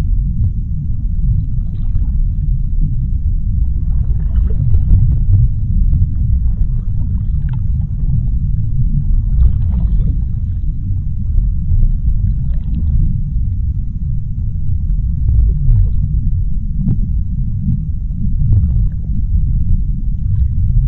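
Deep-sea underwater ambience: a steady, deep rumble with faint, scattered crackles above it.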